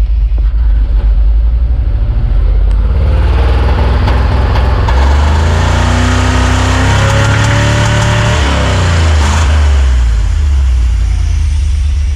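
1994 GMC C3500HD truck engine cold-started below freezing: the starter cranks with a rapid low pulsing, the engine catches about three seconds in, revs up and falls back, and settles to a steady idle.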